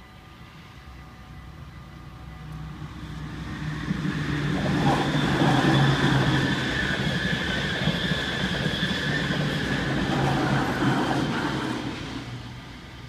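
An NS ICMm (Koploper) electric intercity train passes over the level crossing. Its wheels rumble and clatter on the rails, building up, loudest for several seconds in the middle, then fading away near the end.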